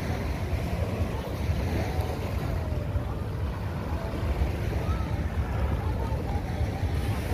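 Wind buffeting the microphone over the wash of sea surf, with faint voices in the background.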